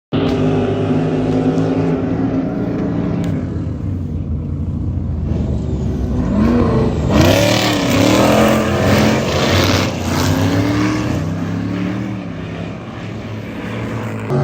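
Race car engines running and revving, several pitches layered together; through the middle they rise and fall in a series of glides, then settle back to a steadier note.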